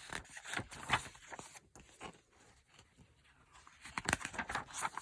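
Paper rustling and crinkling as a picture book's pages are handled and turned. It comes in two short spells, at the start and again near the end, with a quiet stretch between.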